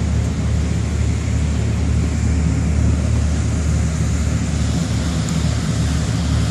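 Boat engine running with a steady low rumble under an even hiss of wind and water.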